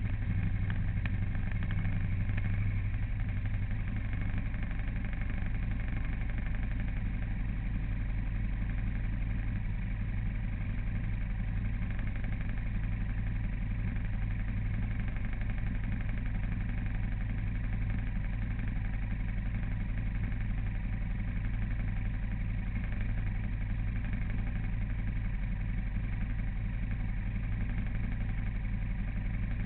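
A vehicle's engine running at a steady pace with an unchanging low drone, as heard while driving along.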